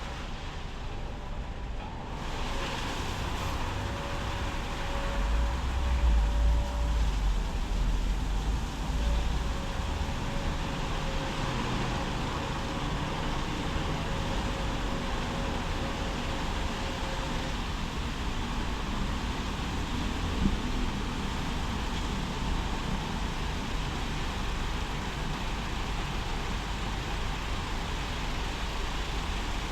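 Automatic car wash machinery running: a steady hiss of spraying water over a mechanical hum, with a low rumble swelling for a few seconds near the start and a steady whine that cuts out about halfway through.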